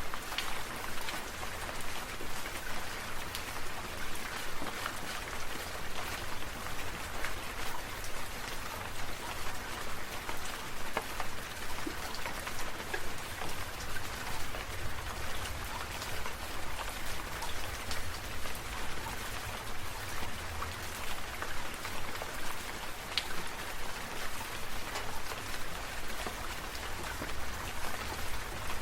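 Sprinkler water pattering down like rain, its spray swelling and fading in a regular pulse about twice a second, with a low rumble underneath.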